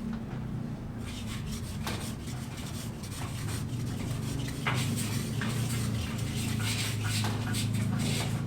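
Rough scraping or rubbing with scattered knocks, over a steady low hum.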